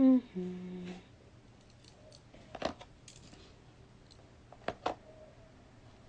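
A person humming a short two-note 'mm-mm', the second note lower, ending about a second in; then a few faint sharp clicks, one near the middle and a quick pair a little later.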